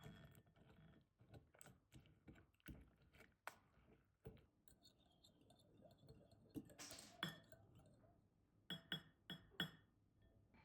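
Faint kitchen handling sounds: a string of light taps and clicks of dishware. There is a short hiss about seven seconds in, and three quick ringing clinks near the end.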